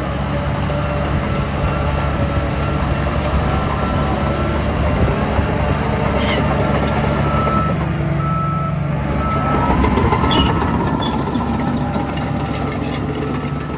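Heavy diesel earthmoving machinery running, with a reverse-warning alarm beeping steadily about twice a second. About ten seconds in, the engine revs up briefly, and there are a few metallic clanks.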